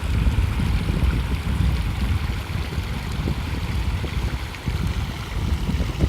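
Waterfall: water rushing over rocks in a steady, full noise with a heavy low rumble.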